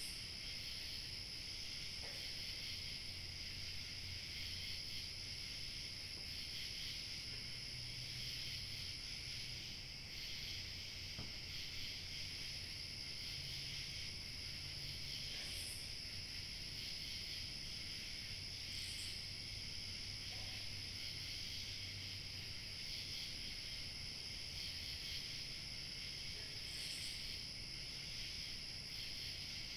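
Steady outdoor evening chorus of chirping crickets, dense and unbroken, with a thin high insect whine above it and a few brief higher chirps. A faint low hum lies underneath.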